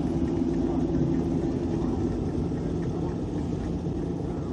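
Car engine running steadily: a low, even drone with no revving.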